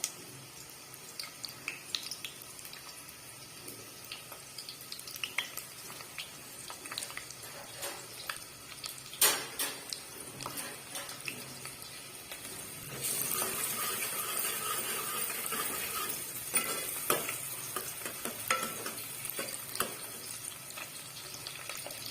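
Onions frying in hot mustard oil, sizzling, while a spoon stirs and scrapes against the pan with scattered clicks. A sharp clack comes about nine seconds in, and the sizzle grows louder from about thirteen seconds in.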